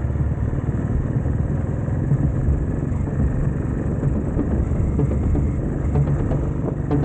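Royal Enfield motorcycle engine running steadily while riding, with road noise and a few short clicks near the end.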